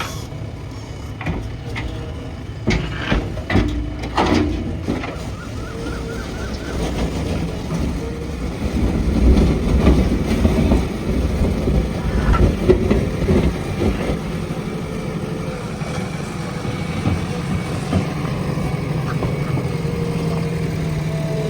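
JCB 3DX backhoe loader's diesel engine working under load, getting louder for several seconds midway, with a series of sharp knocks and clanks in the first few seconds.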